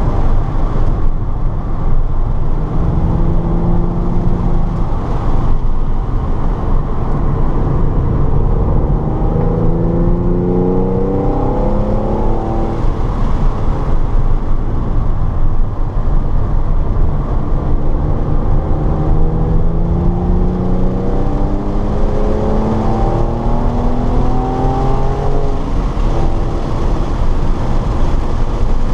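Car engine running hard on a race track, climbing in pitch several times under acceleration and dropping back in between, over a constant heavy low rumble.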